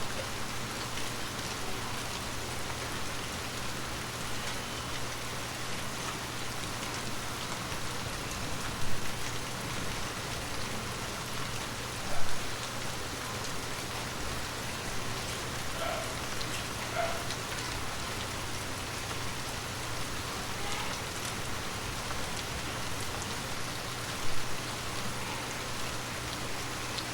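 Heavy rain falling steadily, a dense even hiss of drops, with three sharp, louder hits standing out: one about a third of the way in, another a few seconds later, and one near the end.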